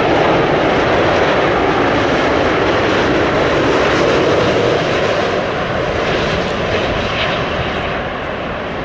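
Boeing 787 airliner landing, its twin jet engines a loud, steady roar that starts abruptly just before and eases a little over the last few seconds.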